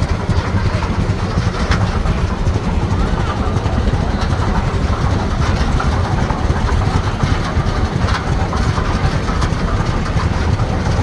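A heavy engine running steadily at low speed, a deep, evenly pulsing rumble.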